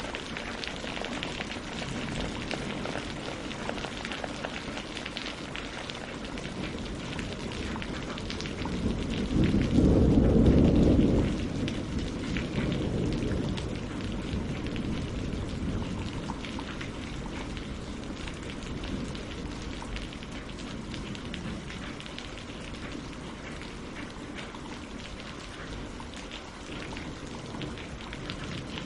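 Steady rain falling on a lake and on tree leaves, a dense patter of drops. About nine seconds in, a low rumble swells for two or three seconds as the loudest part, then fades back under the rain.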